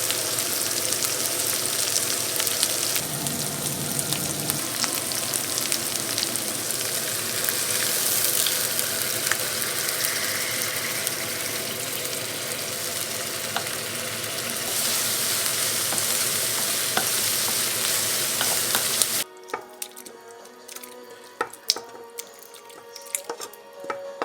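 Food sizzling in hot oil in a pan, stirred with a utensil, giving a few scraping clicks over a steady sizzle. About nineteen seconds in the sizzle cuts off abruptly, leaving a much quieter stretch of light taps and knocks.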